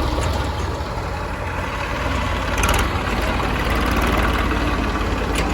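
Heavy diesel engine running steadily at a low rumble, with a brief hissing burst a little under three seconds in.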